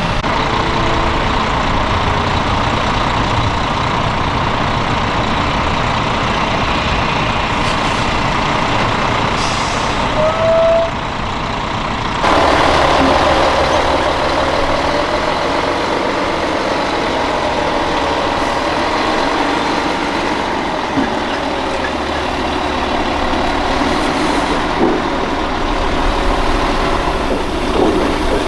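Heavy military trucks running, a loud steady engine and road noise throughout. A short high tone sounds about ten seconds in, and the sound shifts abruptly about twelve seconds in.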